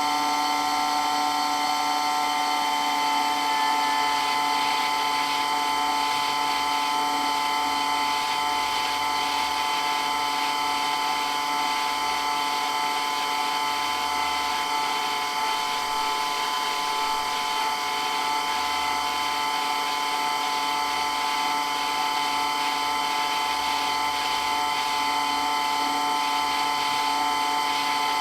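Water pump running continuously with a steady whine made of several held tones.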